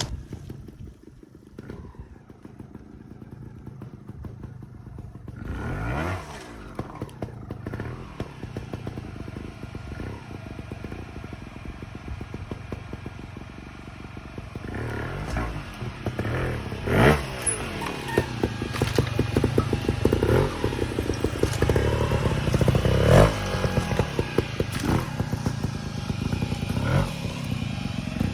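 Trials motorcycle engine running low, then blipped in short sharp revs as the bike picks its way over rocks, with clattering and knocks from the bike and tyres on rock. It is quieter at first and louder over the second half, with the strongest revs about two-thirds of the way in.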